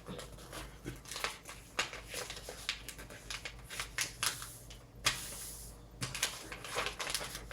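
A sheet of paper rustling and being creased as the wings of a paper airplane are folded: a run of irregular short crinkles and taps, with a longer rustle about five seconds in.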